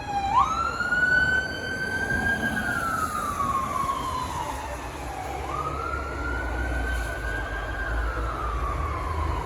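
Emergency vehicle siren wailing: the pitch rises quickly, holds, then falls slowly, and the cycle repeats once more, over a low rumble of road traffic.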